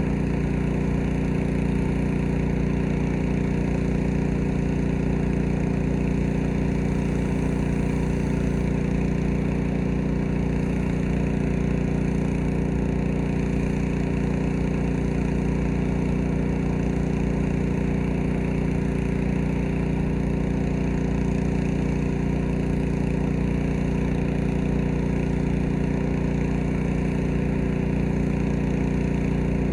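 Small gasoline engine of a pressure washer running at a steady speed without a break.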